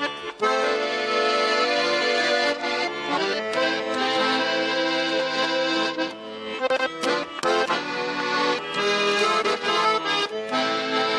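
Garmon (Russian button accordion) playing an instrumental passage of a song between sung verses, melody over sustained chords.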